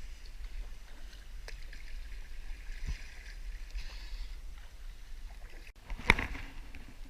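Kayak paddle strokes swishing and splashing in creek water, with a sharper, louder stroke about six seconds in, heard muffled through a GoPro's waterproof housing.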